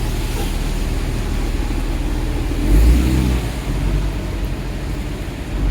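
Steady low rumble of a motor vehicle, swelling louder for a moment about three seconds in.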